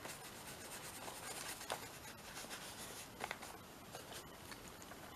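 Faint scratchy rubbing of ink being worked onto a paper journal page, with a few light taps.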